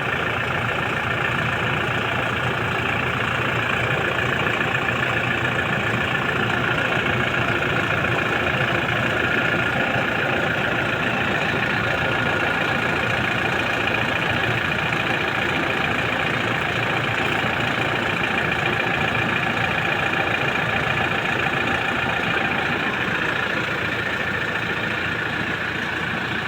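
Toyota Innova engine idling steadily while warming up.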